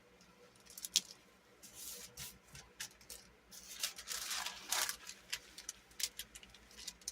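Paper and sticker sheets being handled on a desk: light rustling in two longer stretches, with scattered small clicks and taps.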